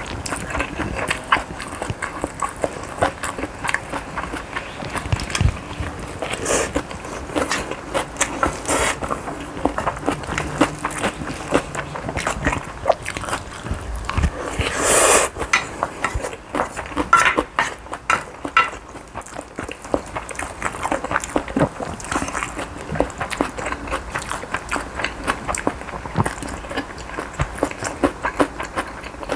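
Close-miked eating sounds: chewing and biting with a dense run of small wet clicks, and one short louder noisy sound about halfway through.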